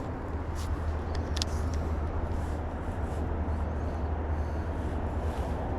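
Steady low background rumble, with a couple of faint clicks about half a second and a second and a half in.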